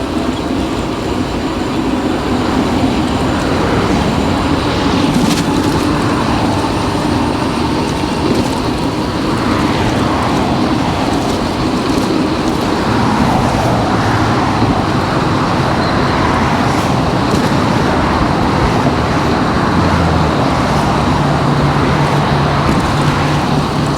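Steady road and traffic noise heard while riding along a city street, with a low hum coming in near the end.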